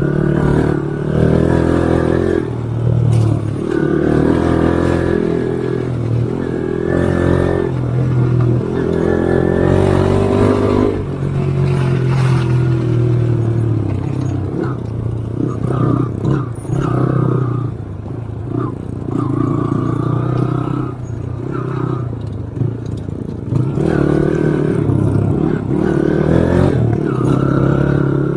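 Engine of an off-road vehicle being driven, its revs rising and falling in repeated surges every few seconds.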